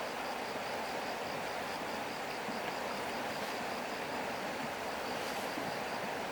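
An insect chirping in a fast, even pulse, about five chirps a second, over a steady rushing hiss.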